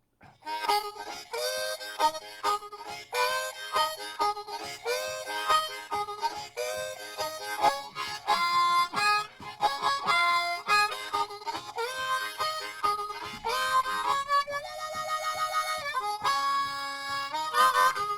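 Blues harmonica playing the instrumental opening of a song in short, rhythmic phrases of chords and single notes, with a fast warbling stretch near the end.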